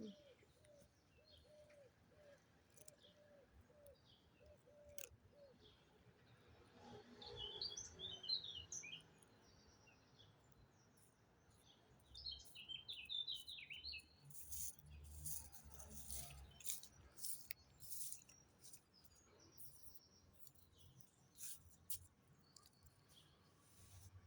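Faint, quiet outdoor ambience with small birds chirping in two short flurries of quick high notes, then scattered faint clicks.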